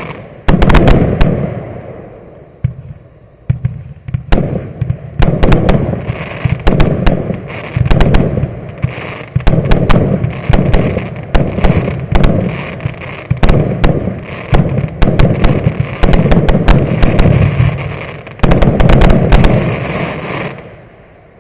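Maxsem MC138 firework going off in a long, rapid series of loud bangs and pops, several a second, before stopping suddenly near the end.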